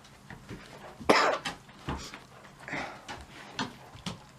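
A person coughing: one loud cough about a second in, followed by a few smaller coughs or throat-clearing sounds.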